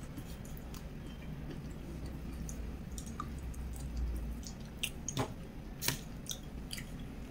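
A person chewing food close to the microphone, soft and wet, with a few sharp mouth clicks, the loudest about five and six seconds in.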